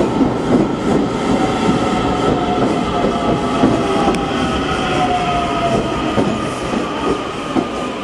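DART electric commuter train running on the rails: a steady rumble of wheels and track with a faint whine that slowly falls in pitch.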